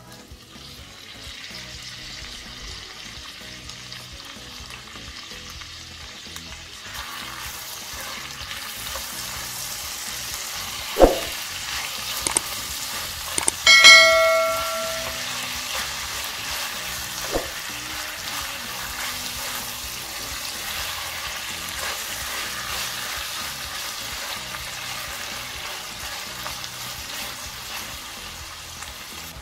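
Chopped fresh tomatoes sizzling and frying in hot butter and tomato paste in a stainless steel pan while being stirred, with a couple of sharp knocks of the spatula against the pan. About halfway through, a loud bell-like ding rings for about a second.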